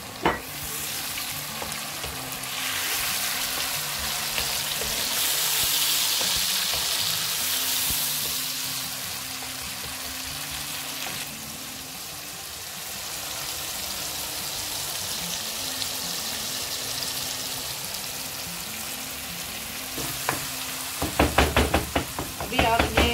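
Onions, tomatoes and green chillies sizzling as they fry in oil in a pan: a steady hiss that swells for several seconds, then settles. Near the end a wooden spoon stirs, scraping and knocking against the pan.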